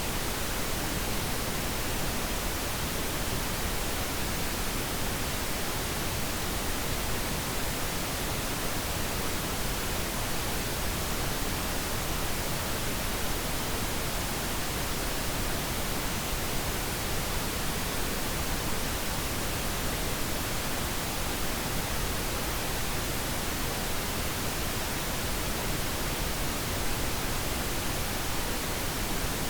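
Steady pink noise: an even, unbroken hiss spread across the whole range from deep to high, with no changes or events.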